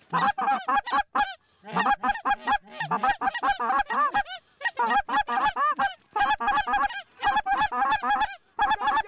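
Rapid, high-pitched Canada goose clucks and honks, several a second, in quick runs broken by brief pauses.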